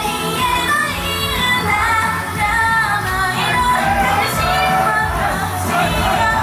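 Japanese idol pop song performed live: female voices singing the melody over a loud backing track with a steady beat.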